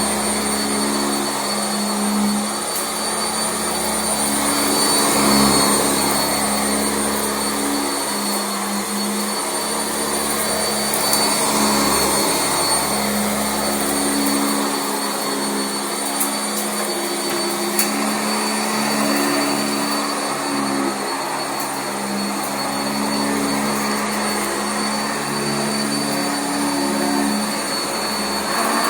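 Sanitaire SC679J commercial upright vacuum cleaner running on carpet. A steady high motor whine sits over a lower hum that waxes and wanes.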